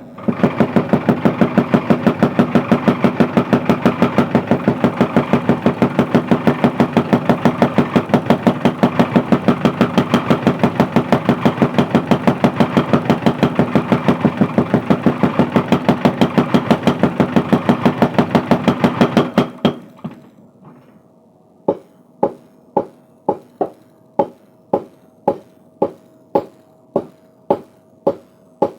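Mechanical power hammer forging a steel bar, pounding in a fast, even run of about five blows a second that stops about 19 seconds in. After a short pause, slower single hammer blows follow, about two a second, each with a metallic ring.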